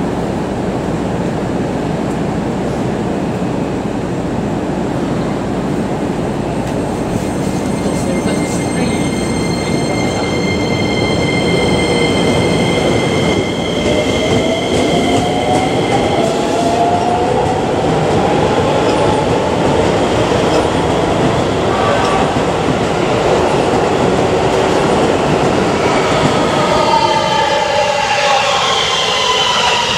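Electric commuter train pulling out of the station and accelerating, its traction motors whining over the rumble of the wheels. The whine rises in pitch from about halfway through, and several higher rising tones join near the end.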